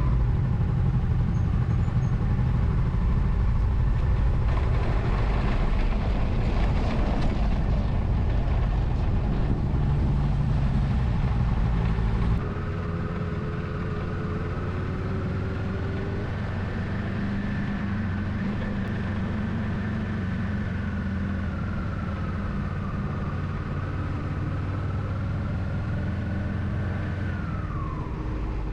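Motorcycle engine and road noise during a ride, a steady low running sound. It steps down a little about twelve seconds in, and from there a high whine slowly wavers up and down.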